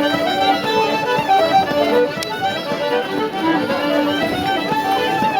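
Traditional music led by a fiddle, playing a quick melody of short notes.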